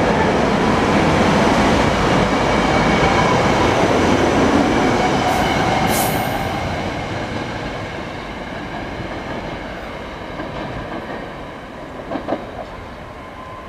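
SEPTA Silverliner IV electric multiple-unit train pulling out and passing close by, its wheels running over the rails; the noise falls away after about six seconds as the last car goes by and the train draws off. A few brief knocks come near the end.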